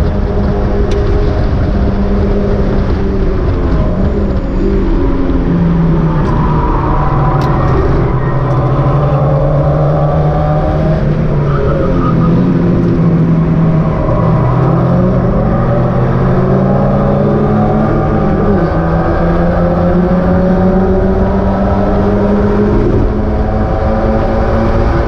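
Mazda MX-5 race cars' four-cylinder engines at racing revs, the notes repeatedly climbing and dropping through gear changes, with several cars' engines overlapping at different pitches.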